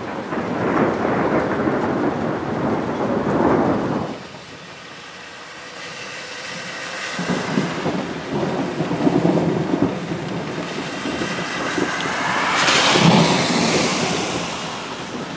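Rolling thunder during a thunderstorm: one long rumble in the first four seconds, then a second that builds from about six seconds in and is loudest near the end, over steady rain.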